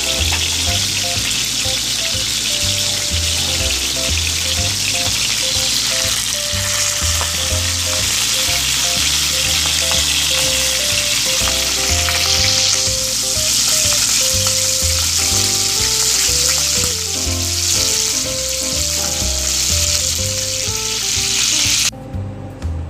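Stuffed chicken wings sizzling as they fry in oil in a pan. The sizzle stops near the end. Background music with a melody and a regular bass beat plays throughout.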